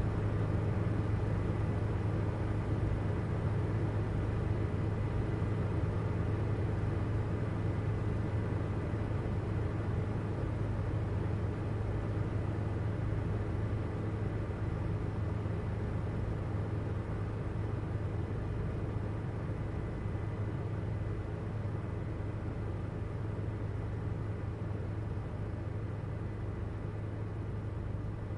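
Steady drone of a helicopter heard from inside the cabin, with a strong low hum and a faint thin whine above it, easing slightly toward the end.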